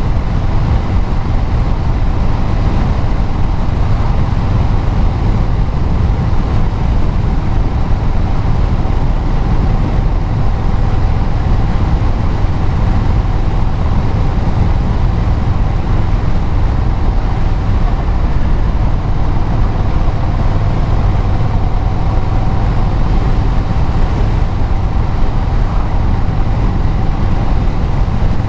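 Vehicle engine and exhaust with tyre and road noise at a steady cruise, with a faint steady whine running through it.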